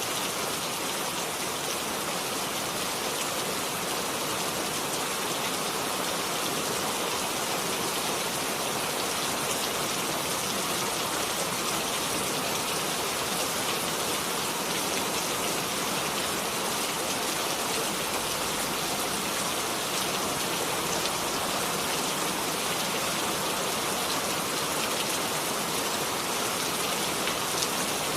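Steady rain falling, an even hiss of many drops with no single loud event.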